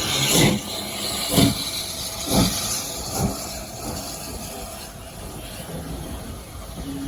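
Steam locomotive exhaust chuffing slowly, about one beat a second, each beat with a hiss of steam; the beats fade after about three seconds into a quieter steady rumble.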